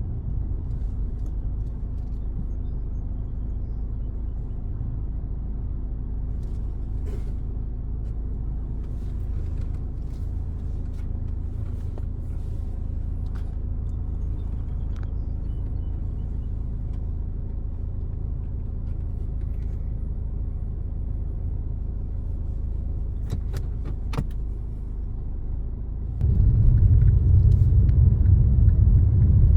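Car driving along: a steady low rumble of road and engine noise with a few faint clicks, getting suddenly louder and heavier about 26 seconds in.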